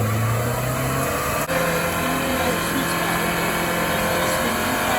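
Car engine held at steady high revs during a burnout. Its note steps up to a higher pitch with a brief break about a second and a half in.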